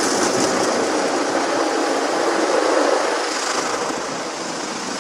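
Automatic car wash running, heard from inside the car's cabin: a steady rushing of water spray and machinery against the car body that eases off in the last couple of seconds.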